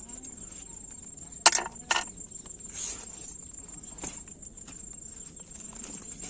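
Crickets trilling steadily on one high note, with two sharp knocks about a second and a half in, half a second apart, and a soft rustle soon after.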